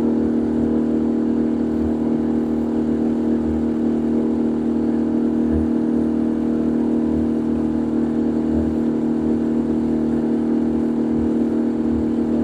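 Boat engine running at a steady speed, a constant even drone.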